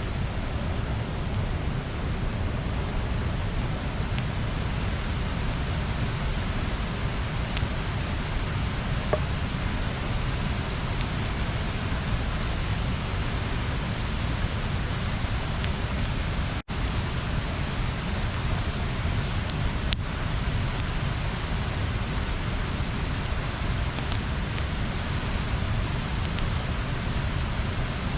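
Bonfire burning: a steady rushing noise with a few faint crackles and pops here and there.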